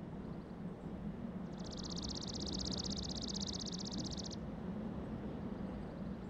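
A small bird singing one rapid, even, high trill for about three seconds, with fainter trills before and after, over a steady low hum.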